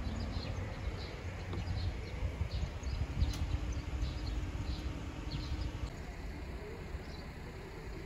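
A small bird chirping repeatedly, about two short high chirps a second, which stop about six seconds in. Under it runs a steady low rumble.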